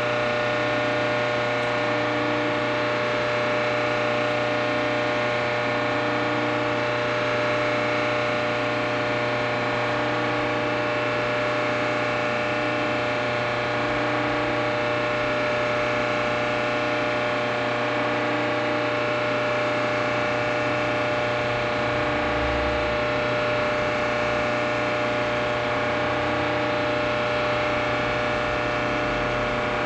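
Clausing metal lathe running steadily under power: an even mechanical hum with several steady tones and a faint pulse about every 1.3 seconds.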